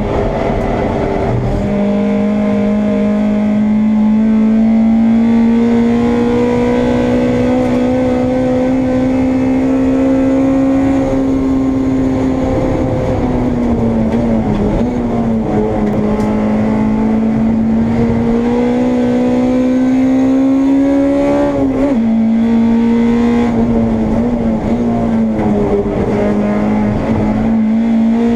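Honda Integra race car's engine heard from on board under racing load, its note climbing slowly for long stretches. The pitch drops at several points, sharply about 22 seconds in, at gear changes and braking.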